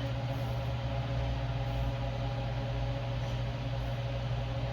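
Steady machine hum with a low drone and a fainter higher tone, unchanging throughout.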